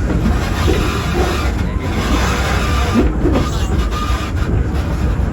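Open passenger car of a steam excursion train rolling along the track: a steady low rumble with rattling, heard from on board.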